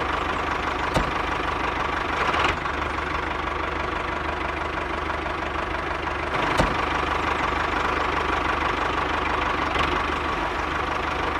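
Miniature DIY tractor running steadily with a low engine-like hum, broken by a few short sharp clicks.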